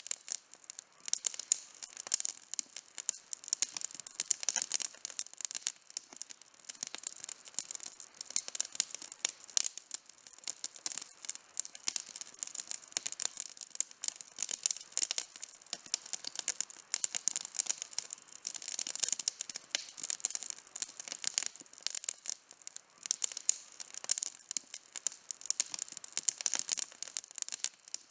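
Campfire burning with dense, irregular crackling and popping of wood, many small sharp snaps a second and no low rumble.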